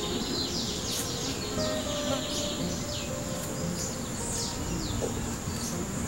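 Wild birds calling in a series of short, falling high notes over a steady high-pitched insect drone.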